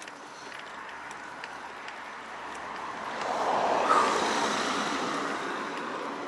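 A motor vehicle passing close by: its noise builds, is loudest about four seconds in, then fades away.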